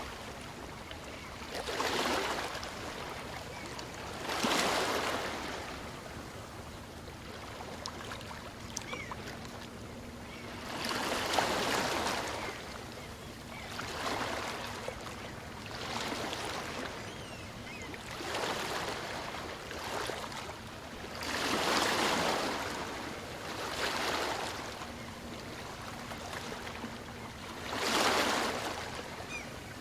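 Small waves on a calm sea breaking and washing up a beach. The surf swells and falls back every two to three seconds, with the strongest surges at about four, eleven, twenty-two and twenty-eight seconds in.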